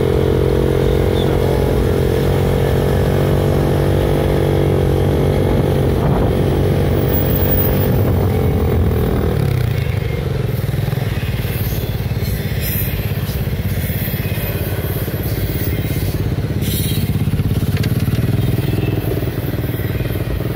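Honda ATC70's small single-cylinder four-stroke engine running steadily for about nine seconds, then dropping back to a rougher, slightly quieter run.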